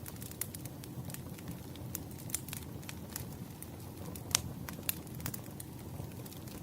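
Wood fire crackling: irregular sharp pops and snaps over a steady low rumble, the loudest pop a little past four seconds in.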